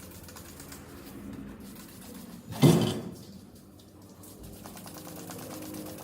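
A single loud knock a little before halfway through, fading quickly, over faint steady background noise.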